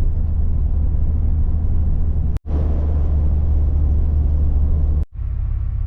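Car driving: a steady low rumble of engine and road noise. It cuts off abruptly twice, about two and a half and five seconds in, and after the second cut it is quieter, with faint steady tones above it.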